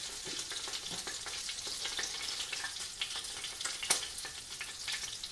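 Flour-coated oysters shallow-frying in hot corn oil in a frying pan: a steady sizzle with fine crackling, and one sharp click about four seconds in.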